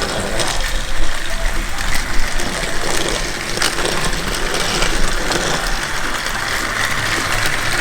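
Battery-powered Trackmaster toy trains running on plastic track: a steady geared motor whir with clicking and clattering from the wheels and track joints, and a couple of sharper knocks about one and two seconds in.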